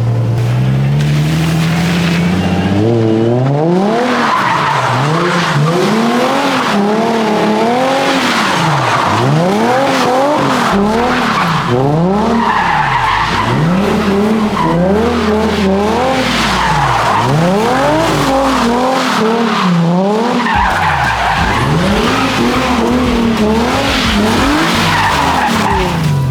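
Nissan 350Z drift car driven hard: the engine revs climb over the first few seconds, then rise and fall again and again, about every two seconds, while the rear tires screech as the car slides.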